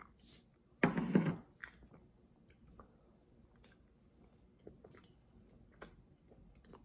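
A person biting into a peeled hard-boiled egg and chewing it, with small wet mouth clicks. A short, louder rush of noise comes about a second in.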